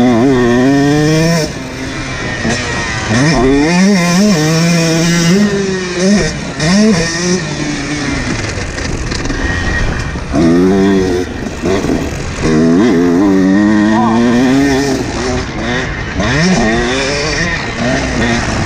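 Husqvarna TC125's 125 cc two-stroke engine being ridden hard, revving up and dropping back again and again as the throttle is opened and chopped, its pitch rising and falling with each pull.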